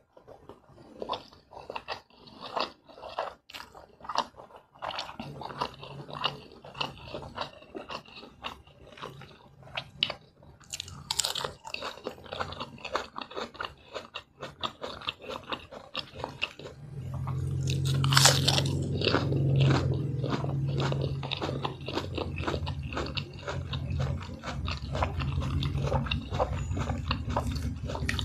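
Close-miked chewing of a mouthful of fried instant noodles and fried egg: many small mouth clicks and smacks. A low hum joins in and grows louder about halfway through.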